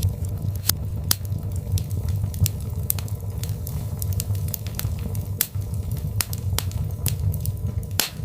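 Birch log fire crackling and popping: irregular sharp snaps, a few louder pops, over a steady low rumble of the flames.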